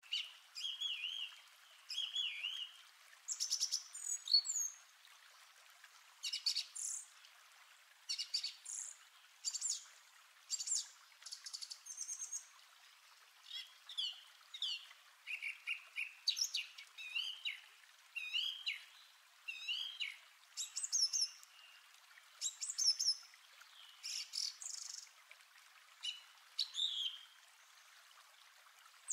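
Songbirds singing: short, high chirps and whistled phrases come every second or two, over a faint steady hiss.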